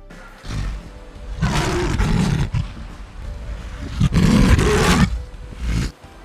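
A large animal calling in loud, rough, drawn-out bellows or roars: two long calls of about a second each, with shorter, weaker ones before and after.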